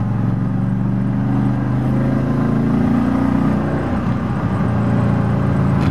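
1972 De Tomaso Pantera's Ford 351 Cleveland 5.8-litre V8, fitted with Hall headers and exhaust and a Holley four-barrel carburettor, pulling under acceleration, heard from inside the cabin. The engine note climbs for about three and a half seconds, breaks and drops at an upshift about four seconds in, then runs steady at a lower pitch.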